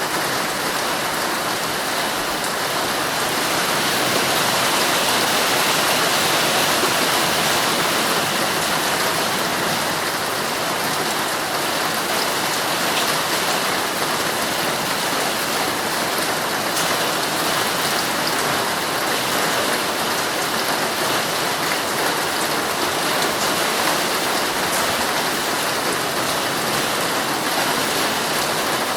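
Heavy rain falling steadily on a tent, heard from inside, a dense hiss dotted with the ticks of single drops, swelling slightly about five seconds in.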